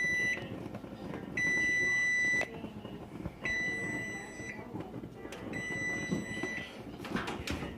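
Electronic alarm beeping: a steady high tone about a second long, repeating every two seconds, four times, the last two quieter. A few knocks follow near the end.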